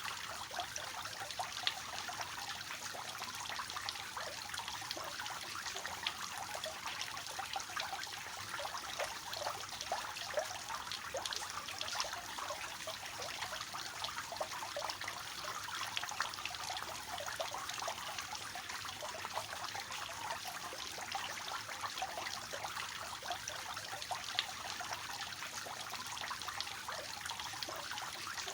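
Water from a three-tiered fountain falling in a steady splashing trickle into the basins, with no pauses or changes.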